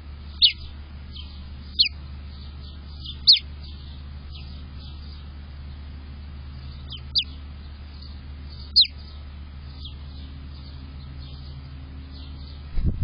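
A bird calling with short, high chirps that slide sharply downward in pitch. Five loud chirps come at irregular intervals, with fainter ones between them. A steady low hum runs underneath, and a low thump comes near the end.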